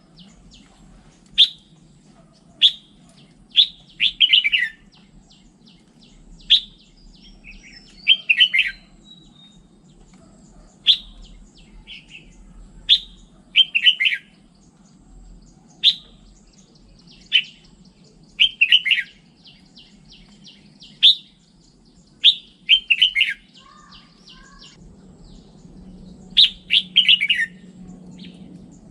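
Red-whiskered bulbul singing: short, loud, clear phrases repeated every second or two, each a sharp high note followed by a quick falling warble.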